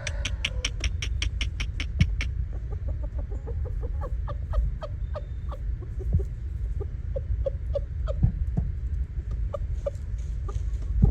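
Chickens clucking: a quick, even run of sharp clicking notes for about the first two seconds, then scattered short clucks.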